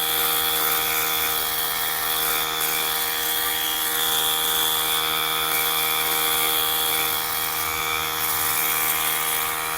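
Simoniz cordless foam cannon's electric pump motor running steadily: a constant hum with a high whine above it.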